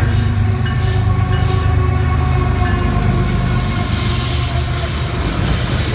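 Train passing close by: a loud, steady deep rumble with several thin, steady high tones running over it.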